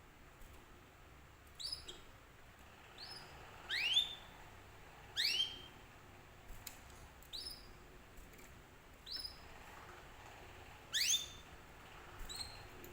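Canary giving a series of sharp, rising whistled chirps, each sweeping quickly upward, spaced a second or two apart, with fainter short high chirps between; the loudest come about four, five and eleven seconds in.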